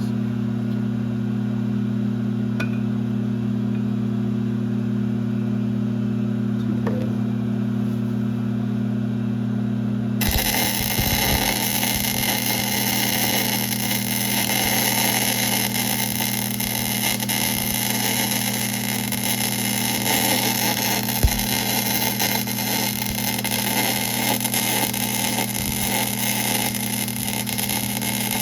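1966 LeBlond geared-head lathe running with a steady hum. About ten seconds in, a louder, rougher noise starts abruptly and keeps on under the hum, with one short knock near the end.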